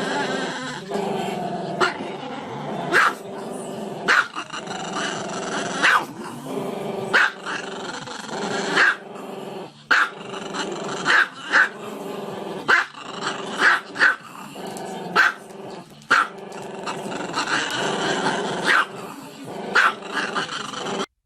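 A dog growling without a break, with sharp barks roughly once a second.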